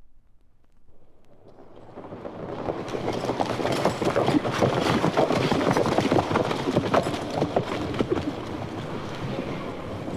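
Hoofbeats of several galloping horses, a dense irregular clatter that fades in over the first few seconds, is loudest in the middle and eases off slightly near the end, as if a group approaches and passes.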